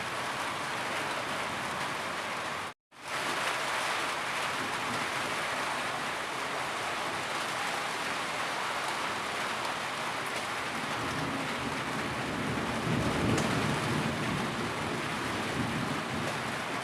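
Steady heavy rain, a dense even hiss. It cuts out completely for a fraction of a second about three seconds in, the seam of a looped recording. A low rumble swells briefly past the middle.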